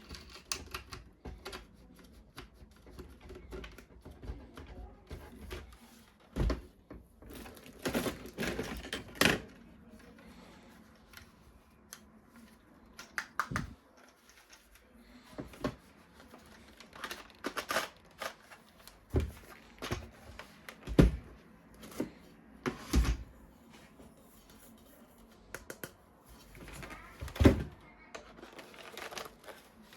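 Hard plastic toy parts and packaging being handled: irregular sharp clicks, clacks and knocks with brief rustling between them.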